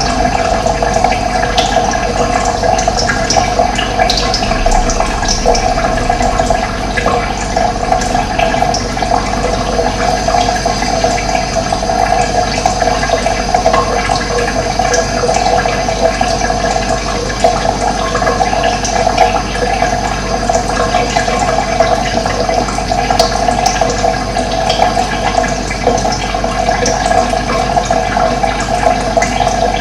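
Running water flowing steadily, with a few faint short bird chirps now and then.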